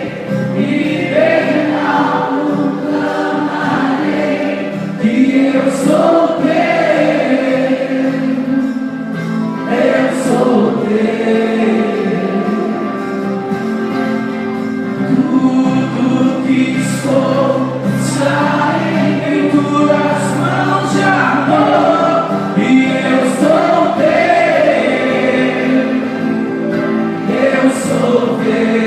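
Gospel worship music: a group of voices singing over sustained instrumental backing.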